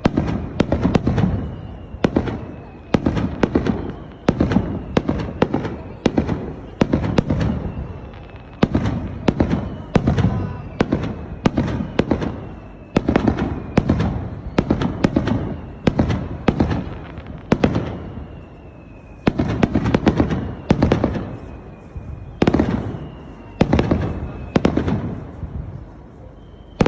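Aerial fireworks going off in a dense barrage: loud booms follow one another every second or so, sometimes several in quick succession, each trailing off in a rumbling echo.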